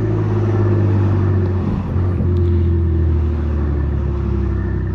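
2018 BMW M3 Competition's straight-piped S55 twin-turbo inline-six running steadily while cruising, a deep, even exhaust drone that wavers briefly about two seconds in.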